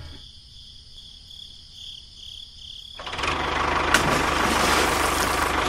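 A quiet stretch with a faint hum, then about three seconds in a small motor starts and runs loudly and steadily with a fast, even pulse.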